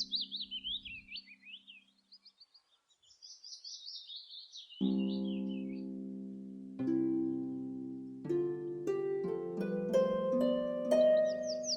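Songbird singing quick, trilling chirp phrases over a fading held chord. About five seconds in, plucked harp-like music begins, with notes that ring and die away, and the birdsong starts again near the end.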